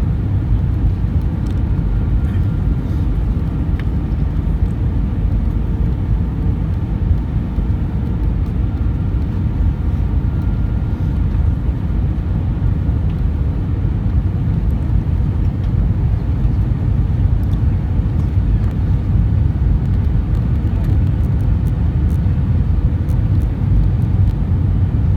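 Airbus A320 cabin noise: a steady low rumble of the engines and airflow, with a faint steady whine above it.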